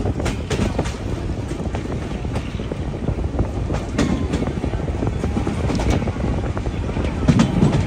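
Indian Railways express train running, heard from inside a passenger coach: a steady low rumble with scattered sharp clanks and rattles.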